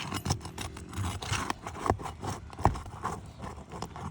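Asphalt shingles being pried loose from their sealant strips: irregular scraping and crackling, with sharp clicks about two and three seconds in.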